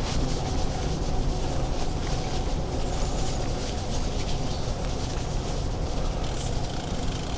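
Steady low rumble of a moving bicycle: tyre noise on the path and wind buffeting the action camera's microphone.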